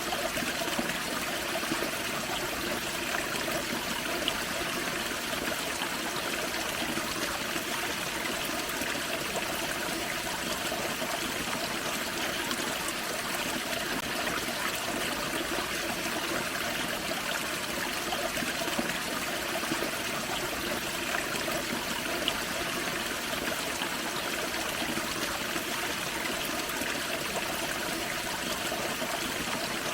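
Forest creek running over a small waterfall: a steady rush and trickle of water, with faint splashes now and then.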